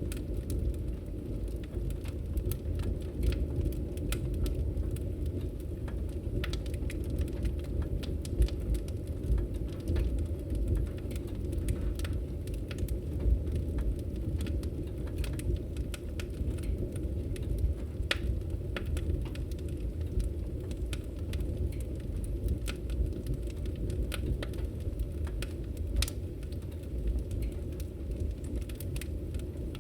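Wood fire in a fireplace crackling: irregular sharp snaps and pops over a steady low noise from the burning fire.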